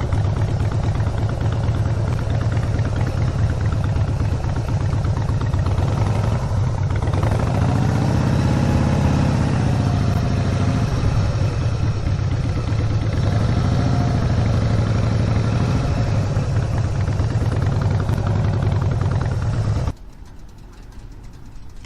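Harley-Davidson motorcycle's V-twin engine running under way. Its pitch rises and falls twice as the rider opens and eases the throttle, and it cuts off abruptly near the end.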